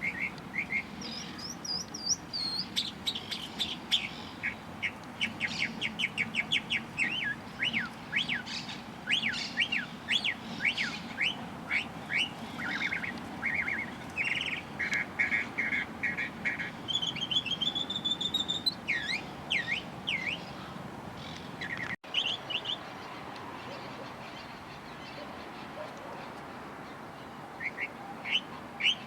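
Songbirds chirping in quick runs of short, sweeping notes, some in rapid trills. About three quarters of the way through the sound breaks off abruptly, and after that only a few chirps come near the end.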